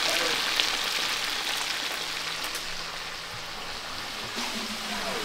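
Food frying in hot oil, a steady sizzling hiss that fades somewhat about three seconds in.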